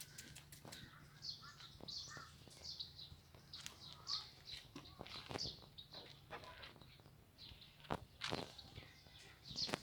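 Small birds chirping: short high chirps repeated irregularly, with a few sharp clicks in between.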